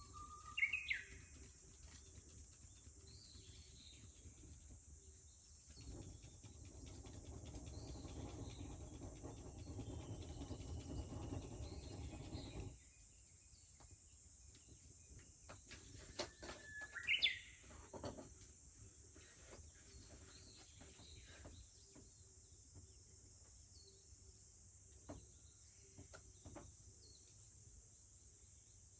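A Japanese bush warbler sings twice, near the start and again about seventeen seconds in: each phrase is a held whistle that sweeps up into a quick flourish. Cicadas drone steadily underneath. A low rushing noise runs from about six seconds in until it cuts off abruptly near thirteen seconds, with scattered clicks later on.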